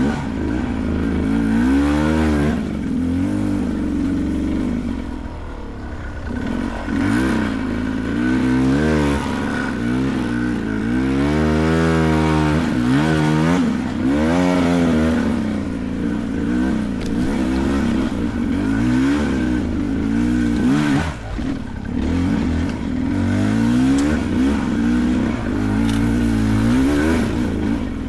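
Beta 300 Race two-stroke dirt bike engine revving up and down over and over, its pitch rising and falling every second or two.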